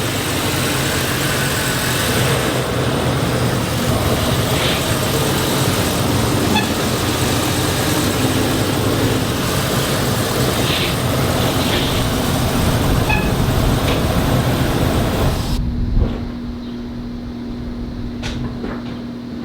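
Truck engine running close by, a steady low drone under loud noise. About three-quarters of the way in it drops suddenly to a quieter steady low hum.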